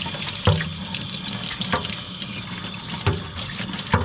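Tap water running steadily into a sink and splashing over a dehumidifier's mesh filter as it is rinsed clean, with four dull knocks along the way.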